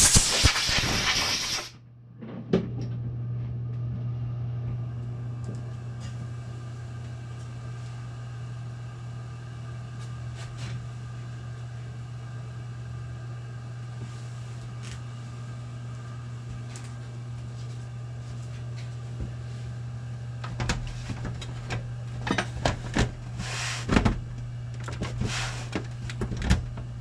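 Computer case back panel being fitted and its thumb screws put in: clusters of sharp clicks and knocks in the last several seconds, over a steady low hum. A loud burst of noise lasts about a second and a half at the very start.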